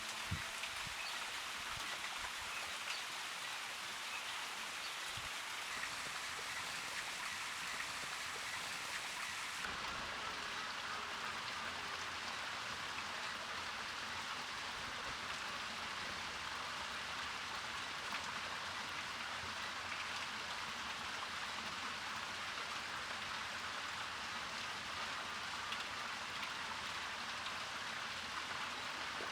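Small garden bird-bath fountain running, its water splashing and trickling steadily.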